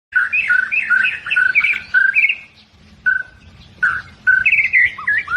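Albino white-rumped shama (murai batu) singing: quick phrases of clear whistles, a lower steady note alternating with higher warbling notes. The song pauses briefly about halfway through and then resumes.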